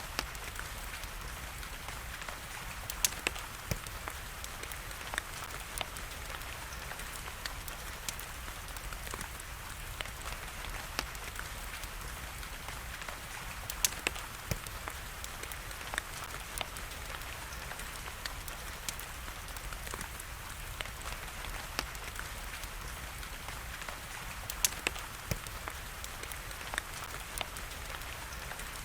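Wood fire crackling, with irregular sharp pops and a few louder snaps, over a steady hiss of rain.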